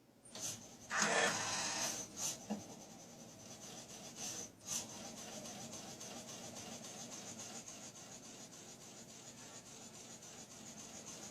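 Nail polish machine at work: a few knocks and a brief louder mechanical noise in the first couple of seconds and again near the middle, then a steady rubbing, scraping run.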